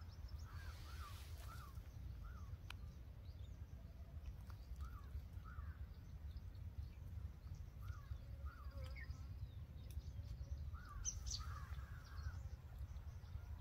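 Birds calling with many short, repeated chirps, over a faint low rumble.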